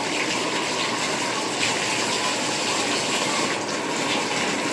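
Tap water running steadily in a rush into a tub or basin, being run hot before being turned back to warm for bathing the dogs.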